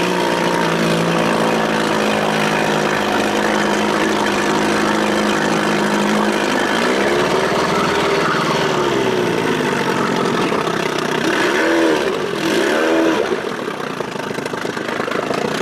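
1993 Evinrude outboard, a two-stroke built up from 25 to 35 hp, running steadily at low boat speed. In the second half its pitch dips and rises several times as the revs change.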